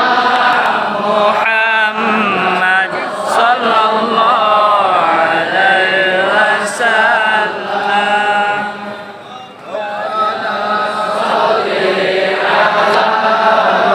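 Many voices chanting sholawat, Arabic devotional praise of the Prophet, in a drawn-out melodic chorus, with a brief dip about two-thirds of the way through.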